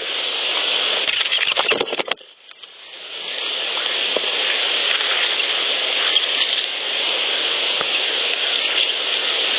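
Steady hiss of an amplified outdoor field recording, with a few faint clicks and rustles. The hiss drops out briefly about two seconds in, where one clip ends and the next begins.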